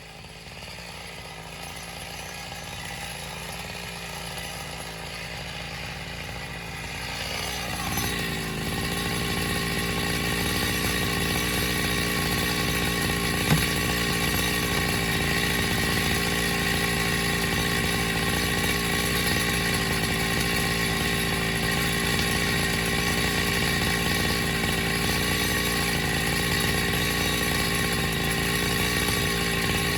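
An engine running at a steady speed, growing louder about eight seconds in and then holding an even pitch, with one sharp click about halfway through.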